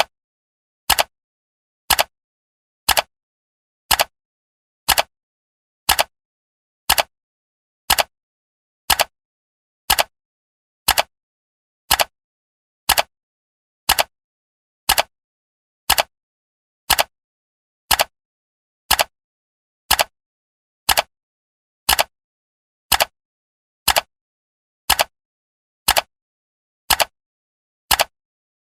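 Countdown timer's clock-tick sound effect: one short, sharp tick every second, evenly spaced, with silence between.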